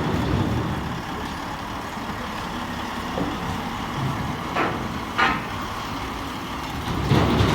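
Heavy truck's diesel engine running with a steady low rumble, with two short hisses a little past the middle and a swell in engine loudness near the end.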